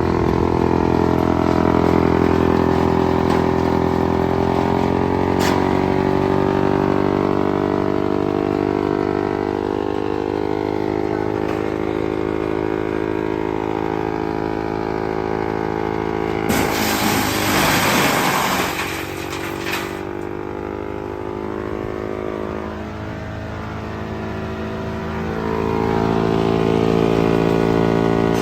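Engine-driven wood chipper running. Between about 16 and 20 seconds in there is a few-second rush of harsh chipping noise, and the engine slows under that load before picking back up near the end.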